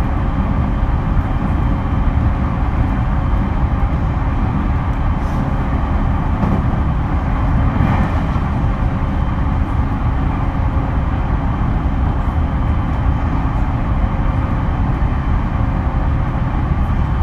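Interior running noise of a JR East E231 series electric train, heard in a motor car: a steady rumble of wheels on rail with a steady hum that holds one pitch.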